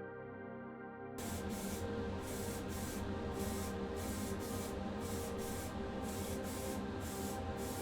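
Primer being sprayed onto a small die-cast car body, a hissing spray that starts abruptly about a second in and pulses in short repeated passes.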